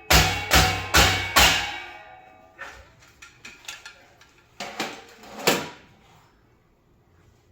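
Hammer blows on a coffee warmer's metal housing: four hard, ringing strikes about half a second apart, some lighter knocks and clatter, then two more strikes.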